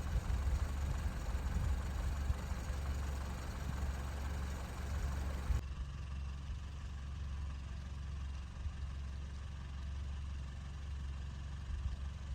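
Steady low rumble of a car's engine and road noise heard from inside a moving car. The higher hiss drops away abruptly about halfway through.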